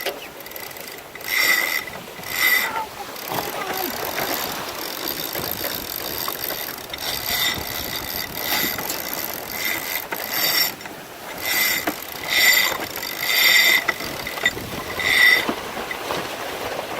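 Sailboat sheet winch clicking in short bursts, about nine times, as its pawls ratchet while a sheet is trimmed. Wind and water noise run underneath.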